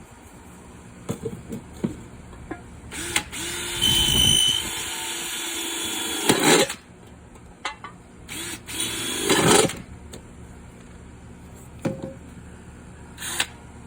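Electric drill running and boring a hole through the bottom of a metal flower pot. It goes in two goes: a long run of about three and a half seconds, then a shorter one a couple of seconds later, with a few knocks in between.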